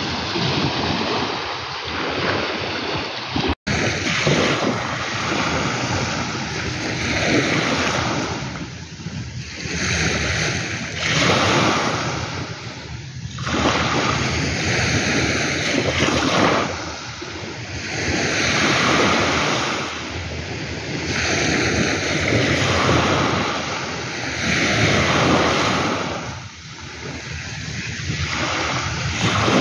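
Ocean surf washing ashore, a steady rushing that swells and eases every few seconds, with some wind on the microphone. The sound cuts out for an instant about three and a half seconds in.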